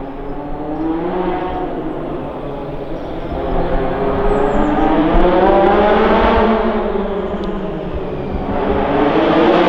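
Rally car engine revving hard, its pitch rising and falling through the gears as the car drives the stage. It gets louder to a peak about halfway through, dips, then climbs again near the end.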